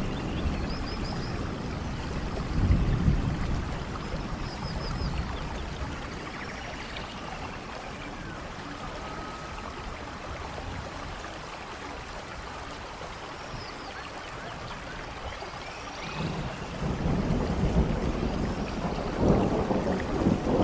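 Steady heavy rain in a rainforest thunderstorm. Thunder rumbles about three seconds in and again from about sixteen seconds on, building toward the end, with faint high chirps over the rain.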